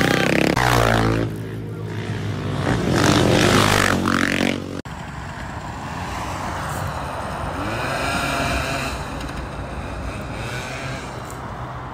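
A motorcycle engine revving hard as the bike rides up close, climbing in pitch twice. After a sudden cut about five seconds in, an Orion pit bike's small single-cylinder engine is heard further off, rising and falling in pitch as it rides in circles.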